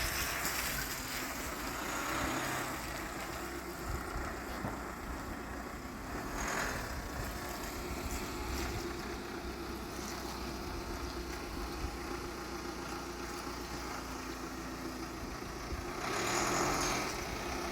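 An engine running steadily with a low rumble, with wind on the microphone.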